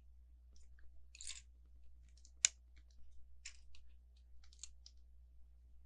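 Plastic Lego bricks being handled and pressed together: scattered light rattles and rustles, with one sharp click about two and a half seconds in.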